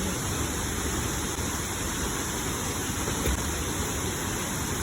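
Steady rushing roar of a large jungle waterfall crashing into its pool, even and unbroken.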